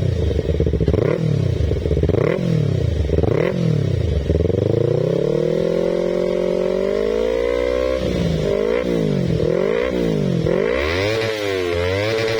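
Yamaha R25's 250 cc parallel-twin engine revving through an Akrapovic aftermarket exhaust. It is blipped about once a second at first, then held at higher revs for a few seconds from about four seconds in, then blipped again in quicker succession near the end.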